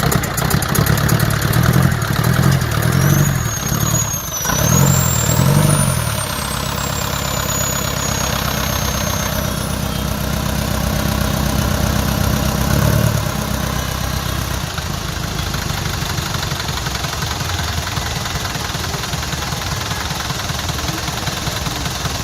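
Engine running after a start, revved in a few surges over the first six seconds and then settling to a steady idle. It is being run to check valve tappet clearance and noise.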